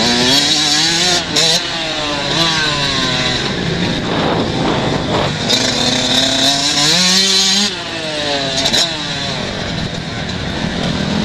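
125cc motocross bikes racing, their engines revving up and falling back over and over through gear changes and corners. One bike passes close twice, louder near the start and again in the middle.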